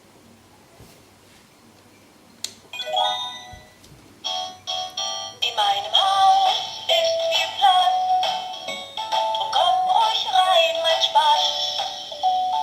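VTech Busy Sounds Discovery Home toy playhouse playing an electronic jingle through its small speaker: a click about two and a half seconds in, a few electronic tones, then a tinny synthesized sung tune.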